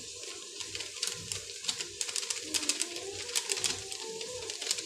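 Oil and tomatoes frying on high heat in a pot, crackling and spattering in quick irregular sharp pops, with a faint low wavering tone underneath.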